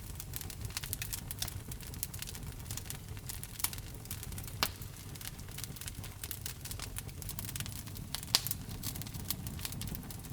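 Wood fire burning in a fireplace: a steady low rumble of the flames with frequent irregular crackles and pops, the sharpest pops about halfway through and near the end.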